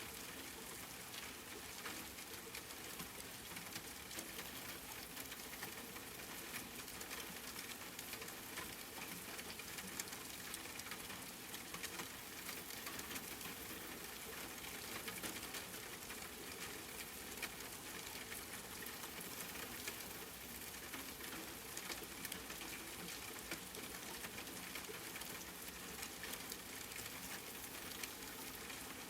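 Steady rain falling, an even hiss of fine drops with a dense patter of small ticks.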